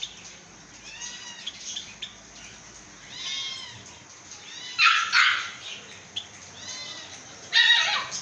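Small caged birds chirping over and over in short arched calls, with two loud harsh calls, one about five seconds in and one near the end.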